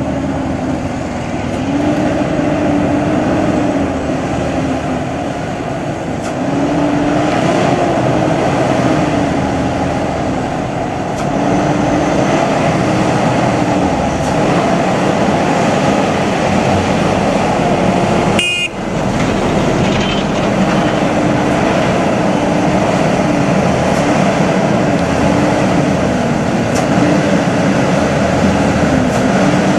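Heavy truck engine running on the road amid traffic noise, its note rising and falling again and again as the revs change, with a brief break about two-thirds of the way through.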